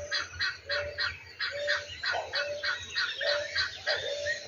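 Helmeted guinea fowl calling: a long run of harsh, evenly repeated notes, about three to four a second.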